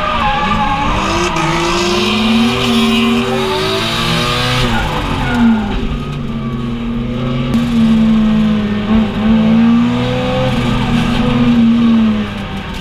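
Drift car's engine heard from inside the cabin, revving up and down as the car slides, then held high for several seconds before dropping near the end, with tyre skidding noise underneath.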